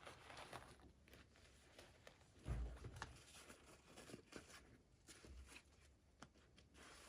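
Faint handling of toy packaging: soft rustling and small clicks, with one dull thump about two and a half seconds in.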